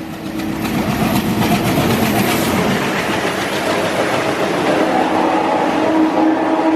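Indian Railways train running past close by: a loud, steady rush of wheels on rails and coaches going by, with some clatter over the rail joints.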